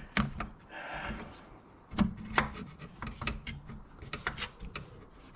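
A replacement water pump and its bolt knocking, clicking and scraping against the engine as they are worked into position by hand. There are sharp knocks about a quarter-second in and at about two seconds, with a short stretch of scraping around one second and lighter clicks in between.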